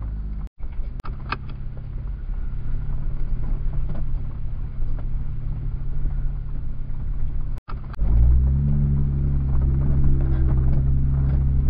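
A Jeep's engine runs at low trail speed, with scattered light clicks and rattles. The sound cuts out briefly twice. From about eight seconds in the engine hum is louder and steadier.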